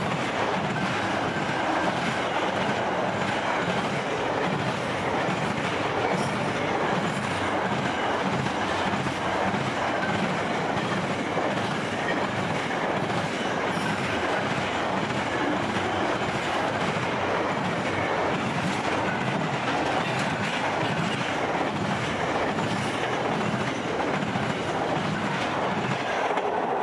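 Container freight wagons rolling past at speed: a steady din of steel wheels on rail with a repeating clickety-clack. The sound falls away at the very end as the last wagon clears.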